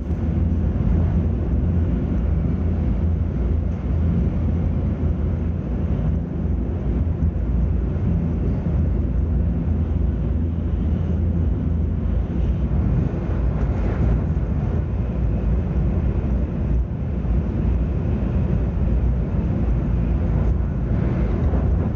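Sakura Shinkansen bullet train running at speed through a station without stopping: a steady, loud low rumble of train and track noise that holds level throughout.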